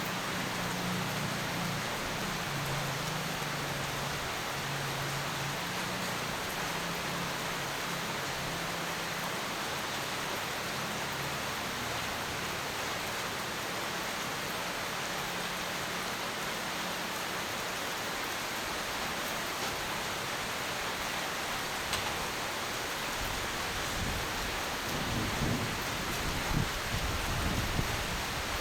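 Steady rain with thunder. A low, distant rumble fades out over the first dozen seconds, and a closer, uneven rumble of thunder builds near the end.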